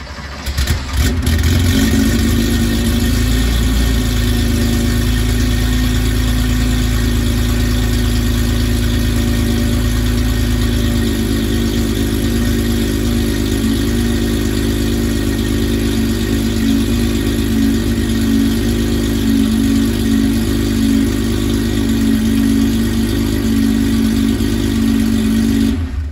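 1986 Porsche 911 Carrera's air-cooled 3.2-litre flat-six engine on a cold start: a brief crank, then it catches about a second in and settles into a steady idle.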